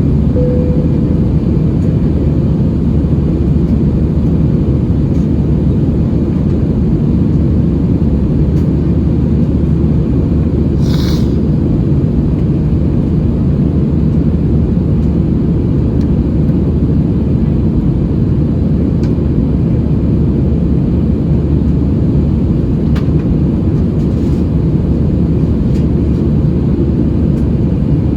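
Steady jet engine and airflow rumble heard inside the cabin of an Airbus A320-216 in flight, from its CFM56 turbofans. A brief hiss comes about eleven seconds in.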